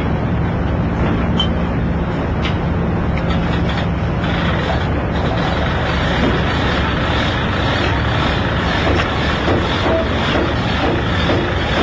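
Heavy engines running steadily, a loud continuous mechanical drone with a low hum underneath and a little more hiss from about four seconds in.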